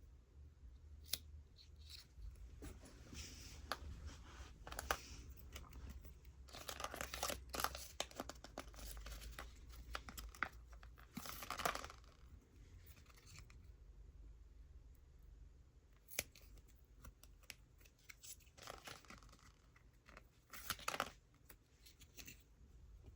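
Close-up handling of toys and packaging: irregular bursts of scraping and rustling with scattered light clicks, the busiest stretch from about a third of the way in to the middle, and another short burst near the end.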